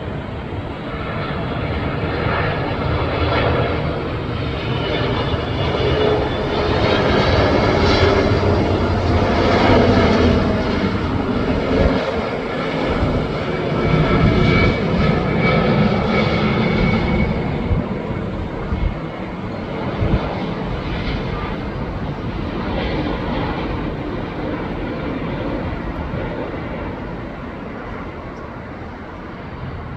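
Boeing 777-200's Pratt & Whitney PW4000 turbofans on final approach. The jet noise builds to its loudest around ten to fifteen seconds in as the airliner passes, with engine whine shifting in pitch, then slowly fades away.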